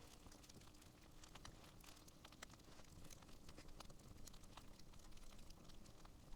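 Campfire wood burning with faint crackling: irregular small pops and ticks over a soft hiss.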